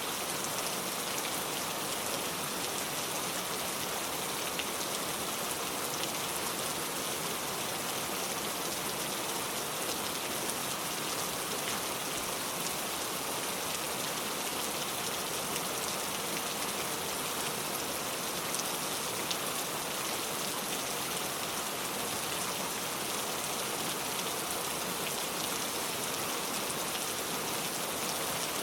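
Steady heavy rain falling and pattering on surfaces, an even hiss with dense drop hits.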